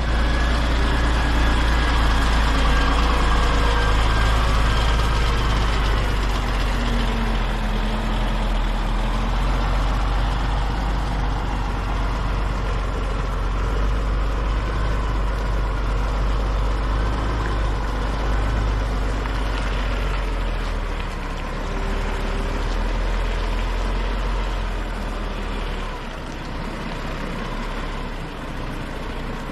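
DAF XF 460 truck's diesel engine running with a steady, heavy low drone, with faint whining tones wavering above it. It eases off slightly near the end.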